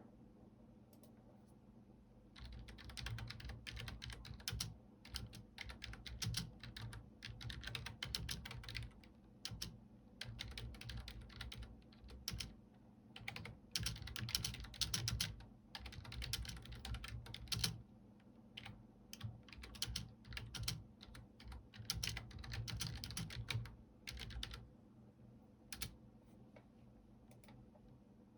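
Computer keyboard typing in quick runs of key clicks broken by short pauses, stopping about three-quarters of the way through with one last click a little later.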